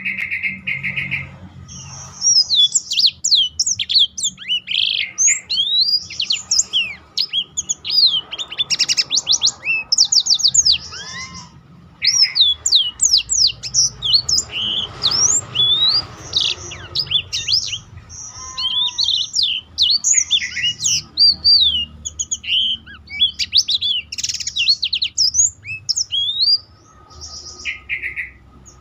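Blackthroat (black-throated canary) song: a long, fast run of varied chirps, trills and quick up-and-down whistles, broken by a couple of short pauses.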